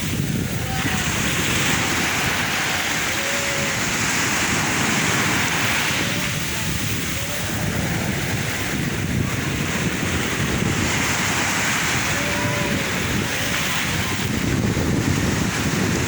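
Sea waves breaking and washing on the shore in a steady, continuous rush, with wind buffeting the microphone.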